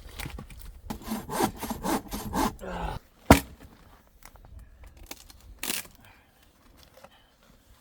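Hand saw cutting wood in quick back-and-forth strokes for about two seconds, then a single sharp knock a little after three seconds in, the loudest sound, with a fainter one near six seconds.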